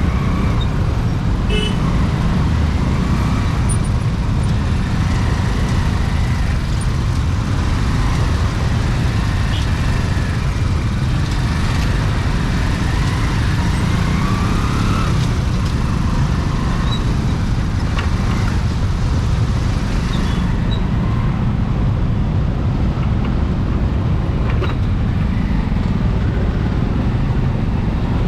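Riding on a scooter through city traffic: a steady, heavy low rumble of the moving scooter and surrounding road traffic, with a few short horn toots now and then.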